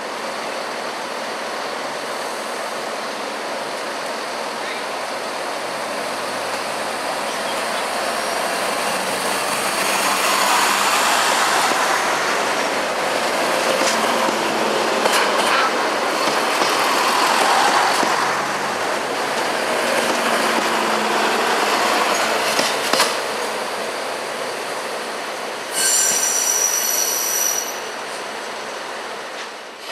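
Diesel multiple unit running past on the track, its running noise building to a peak in the middle and easing off, with a few sharp knocks of the wheels over rail joints. Near the end comes a brief high squeal lasting about a second and a half.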